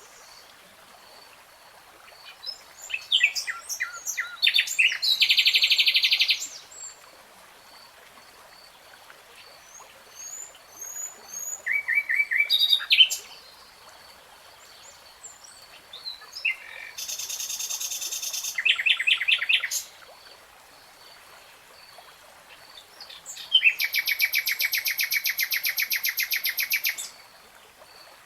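A songbird singing in separate phrases a few seconds apart, made of quick repeated notes and fast trills; the longest, a rapid trill of a few seconds, comes near the end.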